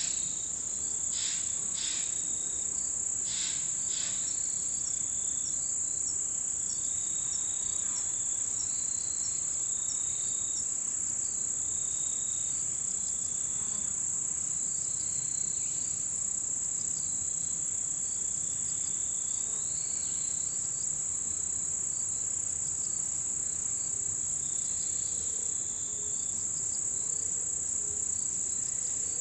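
A chorus of autumn insects: one unbroken, high-pitched trill goes on throughout, with short repeated calls from other singers over it. There are a few sharp chirps in the first few seconds.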